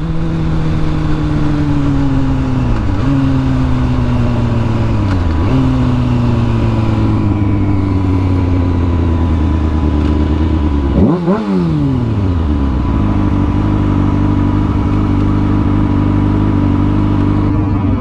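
Honda Grom motorcycle's small single-cylinder engine slowing down, its pitch falling gradually in steps. Just past the middle comes one quick rev that rises and falls, and the engine then settles into steady low running.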